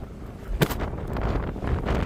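Wind buffeting the microphone in a snow storm, a low rumble that grows stronger about half a second in, with one sharp click just after.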